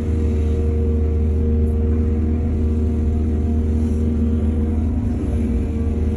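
Excavator's diesel engine running steadily, with a deep, even rumble.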